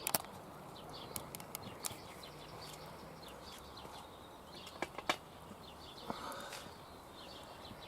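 Small birds chirping faintly in the background, with two sharp clicks about five seconds in.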